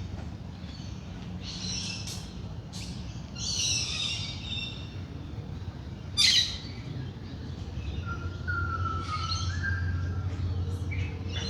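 Wild birds calling in a dawn chorus: a few harsh, chattering calls, then one sharp, loud call about six seconds in, the loudest sound here, followed by lower whistled notes. A steady low rumble runs underneath.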